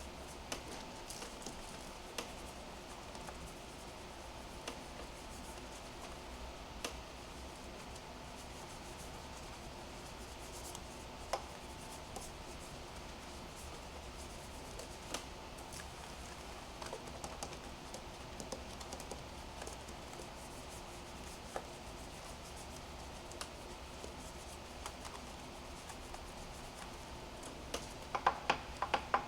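Faint rubbing and scattered light clicks over a steady low hum, with a quick run of clicks near the end.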